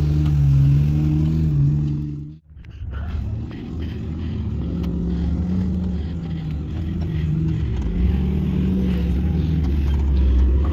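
Jeep engine running at low speed, its note wavering slightly. About two and a half seconds in the sound cuts out abruptly, then comes back rougher, with the engine still running underneath and faint scattered ticks.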